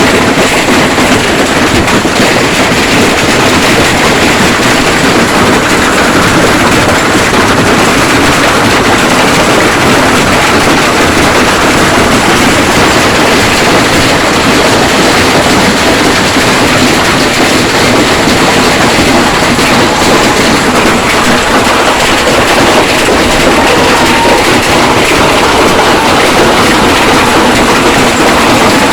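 Hailstones pelting down hard: a loud, steady, dense clatter of countless small impacts that does not let up.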